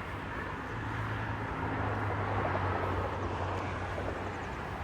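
Steady engine hum with a rushing noise, swelling slightly in the middle and easing off.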